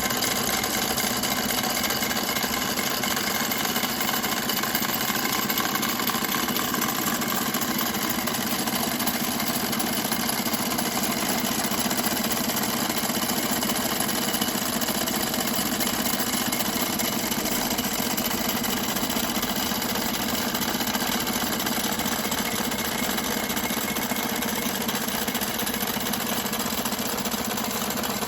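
Model steam engines and the belt-driven machinery of a model workshop running steadily, a continuous even mechanical whirr and clatter.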